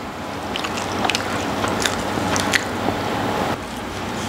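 Chewing a mouthful of boneless fried chicken 65 close to the microphone, with scattered small clicks over a steady hiss.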